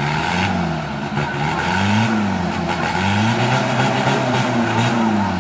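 Off-road 4x4's engine revving hard in repeated bursts, its pitch rising and falling several times as the vehicle works through the course.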